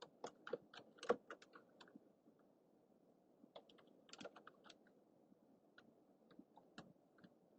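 Typing on a computer keyboard: individual key clicks in irregular bursts. A pause of about a second and a half comes a couple of seconds in, followed by another quick flurry of keystrokes and then scattered single clicks.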